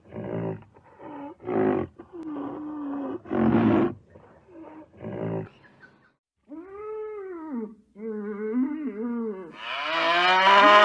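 Animal calls: a run of about six short, rough growls or roars in the first half, then several drawn-out pitched calls that rise and fall, the loudest near the end.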